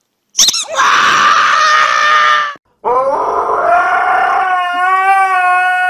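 Squeaky toy squeezed twice, giving two long squeals. The first is breathy and hissing; the second, about three seconds in, is a rising then steady, clear squeal.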